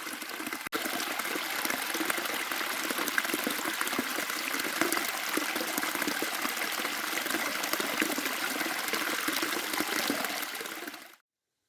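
Rushing, splashing water, a steady dense rush. It cuts out for an instant under a second in and stops abruptly near the end.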